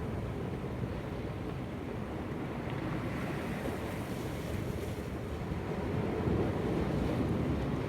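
Sea surf washing against shoreline rocks, with wind buffeting the microphone; the wash grows a little louder about six seconds in.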